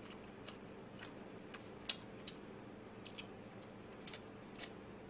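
Chewing crispy fried chicken: short, sharp, irregular crunches and mouth clicks, about a dozen, over a faint steady hum.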